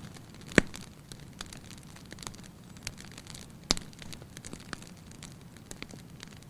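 Wood fire burning in a fireplace, crackling steadily under a low hiss, with two loud sharp pops, one about half a second in and one just under four seconds in.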